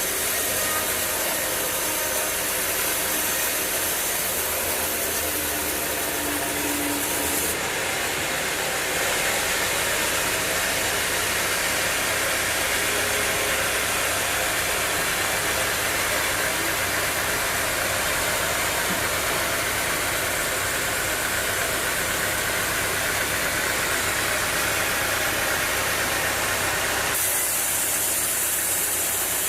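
Sawmill machinery running steadily: an engine hum under a continuous noisy whir, the upper part of the sound changing abruptly about 8 seconds in and again near the end.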